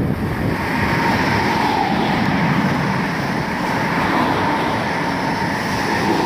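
Electric multiple-unit passenger train running fast along the platform, close by: a loud, steady rush of wheels on rail and air, with a faint steady tone running through it.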